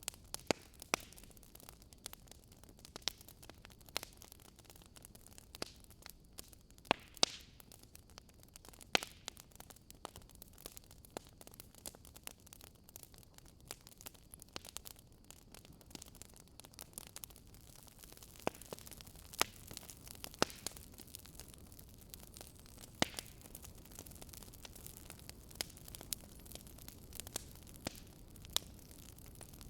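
Wood campfire crackling: irregular sharp pops and snaps, a few of them louder, over a soft steady hiss of burning.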